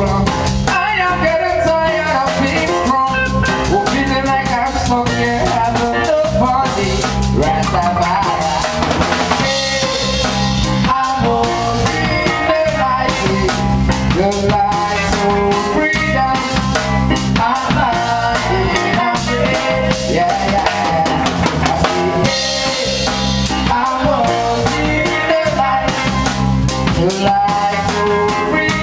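A band playing a song with a steady beat: drum kit with bass drum, snare and rimshots under bass and pitched instruments. Brighter washes of cymbal-like hiss come twice, about ten seconds in and again near twenty-three seconds.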